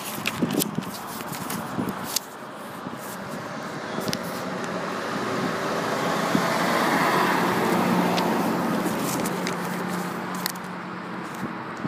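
A car passing on a wet road: its tyre hiss and engine swell to a peak about seven seconds in and then fade, with a steady low engine hum through the loudest part. A few sharp clicks come in the first two seconds.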